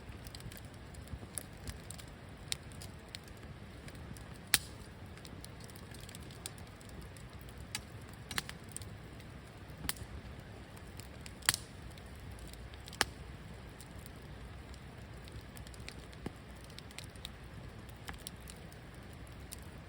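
Wood campfire crackling in a fire pit, with irregular sharp pops scattered throughout; three pops stand out louder, about a quarter of the way in, just past halfway and about two-thirds in.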